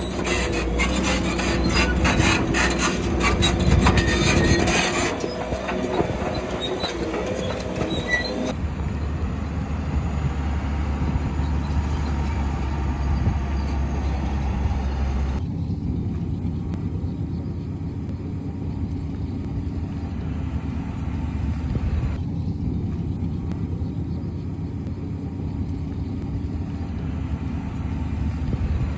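A Shantui crawler bulldozer at work. For the first few seconds its steel tracks clank and squeal over the engine, and after that its heavy diesel engine runs with a steady low rumble. The sound changes abruptly a few times, as at edit cuts.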